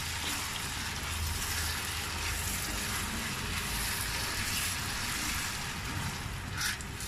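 Rice and grated tomato sizzling as they are fried together in a pan, stirred with a wooden spoon; a steady hiss with a brief louder rasp near the end.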